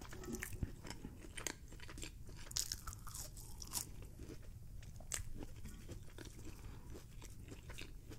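Close-up mouth sounds of someone chewing French fries: irregular soft crunches and clicks.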